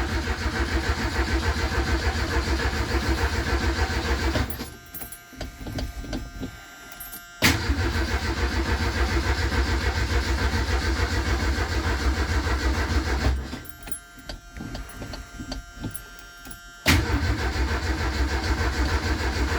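The Shay Thunderbird's Ford 2.3-litre four-cylinder is cranked over by its starter motor in three long rhythmic bursts with pauses between them, each new burst opening with a sharp click. It does not catch on this cold start because the choke has been zip-tied open.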